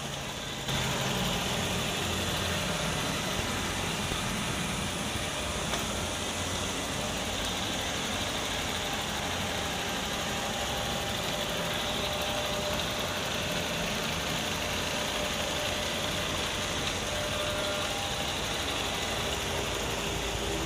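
Robot vacuum cleaner running: a steady whir of its motor and suction fan, with a few faint thin tones over it, stepping up slightly under a second in.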